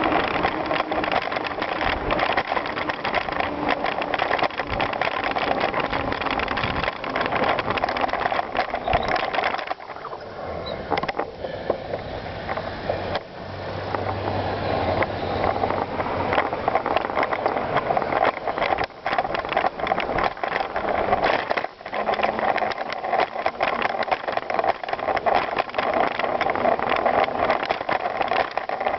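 Bicycle riding over rough ground: steady rattling and rolling tyre noise, quieter for a few seconds about ten seconds in.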